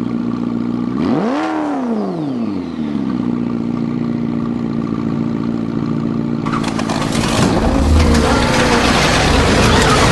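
Car engine idling with a single quick throttle blip about a second in, its pitch rising and falling back. From about six and a half seconds in, a louder, rougher noise takes over.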